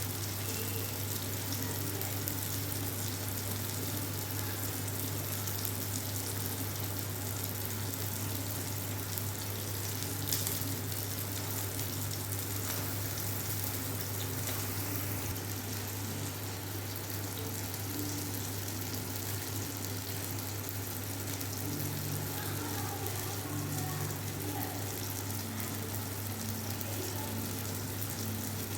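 Marinated tandoori chicken pieces sizzling as they cook on the heat, a steady hiss over a constant low hum.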